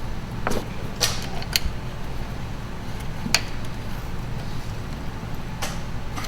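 A few light metallic clicks and clinks, about five spread over several seconds, as bolts and mounting hardware are handled and snugged up, over a steady low hum.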